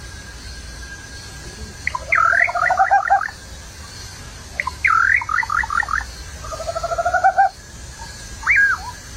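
A songbird singing in repeated phrases. Each phrase is a sharp slurred note followed by a quick run of repeated notes, and one phrase is an even trill that grows louder. A single short call comes near the end.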